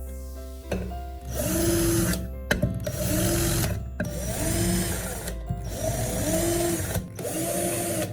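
A power tool runs in about five short bursts of roughly a second each, with a loud grinding hiss in every burst, over background music.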